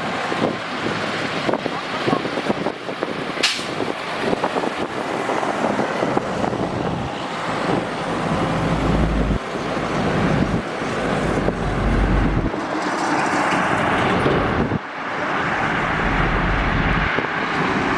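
Heavy trucks passing on a busy highway, their engines rumbling and tyres rushing on the road, swelling as each goes by. A single sharp click comes about three and a half seconds in.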